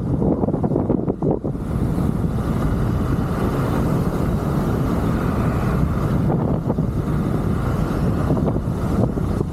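Wind rushing over the microphone of an electric scooter rider moving at speed: a steady, loud buffeting with no clear motor tone.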